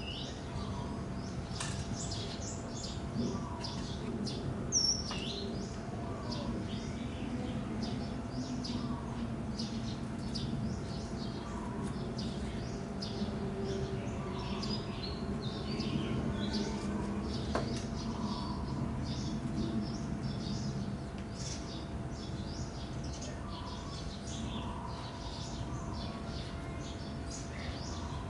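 Small birds chirping continuously, many short high chirps overlapping, over a steady low background rumble.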